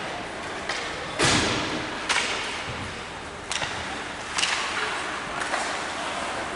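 About six sharp knocks and thuds at uneven intervals, echoing in a large hall; the loudest comes about a second in.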